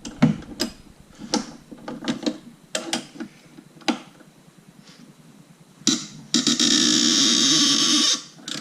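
Socket ratchet working a tight engine-mounting bolt: scattered clicks and knocks of the ratchet and socket, then from about six seconds in roughly two seconds of loud, continuous rapid ratcheting as the freed bolt is run out.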